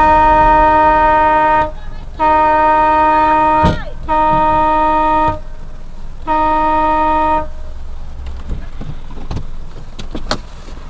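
Car horn honking in four blasts, each one steady pitch: a long held blast, then three shorter ones with short gaps between them. After the last blast only road noise remains, with a few short knocks.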